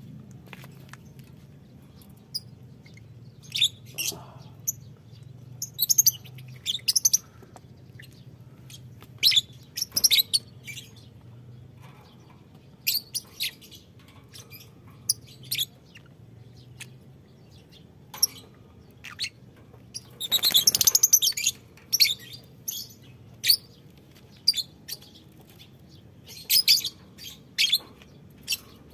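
Lovebirds chirping in short, sharp, high calls scattered irregularly, with a louder, denser burst of chattering about two-thirds of the way through. A faint steady low hum runs underneath.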